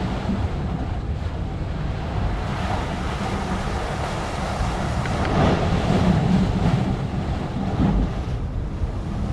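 Wind buffeting the microphone over a steady wash of water or surf, swelling briefly about five seconds in.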